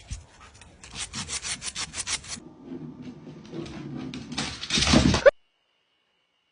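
A dog's claws scrabbling and scraping on a hard floor as it slides, heard as a quick run of scratches, then a louder rush of noise before the sound cuts off suddenly.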